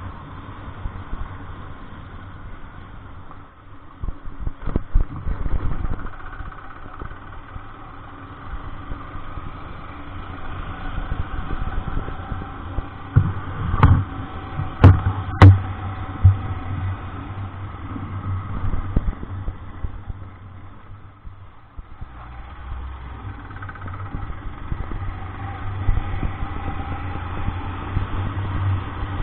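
Vehicle engine running steadily, with loud knocks and thumps in two clusters, about four seconds in and again around thirteen to sixteen seconds.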